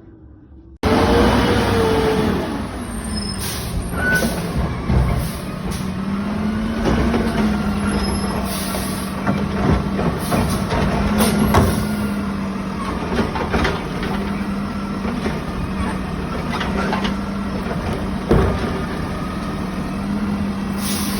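Peterbilt 520 garbage truck with a Labrie Automizer side-loader running at high idle; the engine pitch drops early on and then holds steady. Sharp clanks and air hisses come and go throughout, with one strong one near the end.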